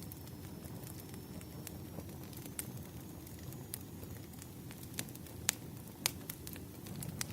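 Wood fire burning: a low steady rumble of flames with scattered sharp pops and crackles, the loudest about two-thirds of the way through.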